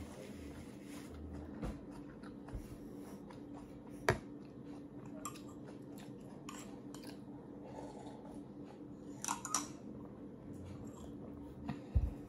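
Close-up eating sounds: chewing with scattered small clicks and smacks over a steady low hum. Just before the end comes a low knock as a glass is set back on the table.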